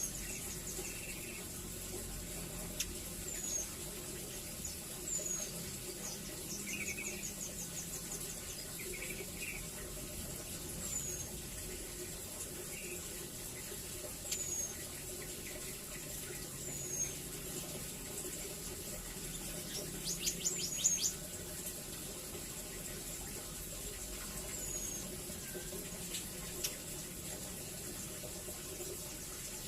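Velvet-fronted nuthatch calling: short, high notes that slide downward, spaced a few seconds apart, with a quick rattling trill twice, over a steady background hiss.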